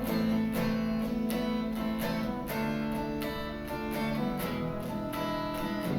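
Acoustic guitar strummed in a steady rhythm, chords ringing with no voice.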